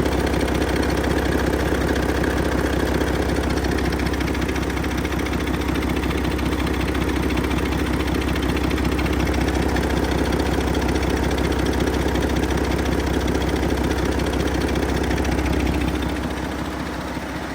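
Mack MP8 12.8-litre inline-six diesel engine running steadily at idle, with a deep, even drone; the sound eases a little about sixteen seconds in.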